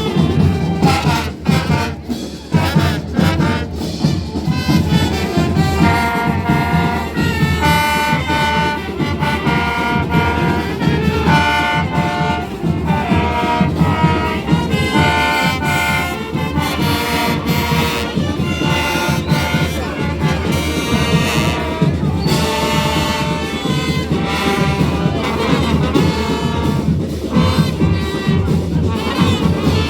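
Marching band playing: a steady drum beat with trumpets and trombones carrying a melody over it, the brass entering strongly about six seconds in.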